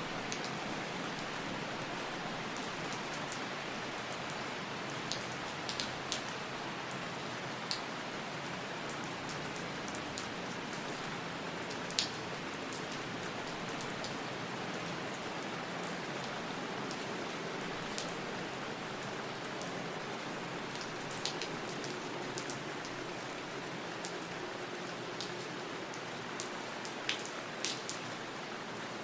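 Steady rain falling, an even hiss with scattered sharp drip ticks, one louder drop about twelve seconds in.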